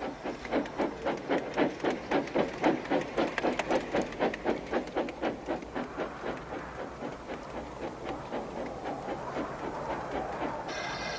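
Steam engine puffing, about three chuffs a second, the chuffs fading into a steadier rush after about eight seconds. A steady high tone comes in near the end.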